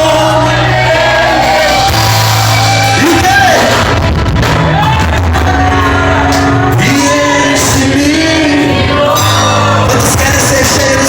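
A band playing with a singer: held bass notes under a sung melody, loud and continuous.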